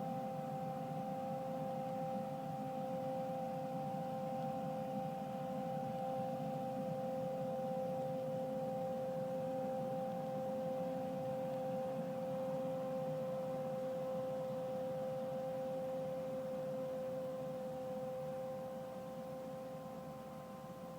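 Kubota M7040 tractor running with a TEYME UNIC 2090 airblast sprayer, its turbine fan spinning: a steady high whine over the low rumble of the engine, easing off a little near the end.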